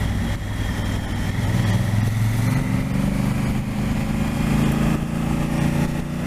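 Adventure motorcycle engine running steadily while riding along a road, heard from the rider's position.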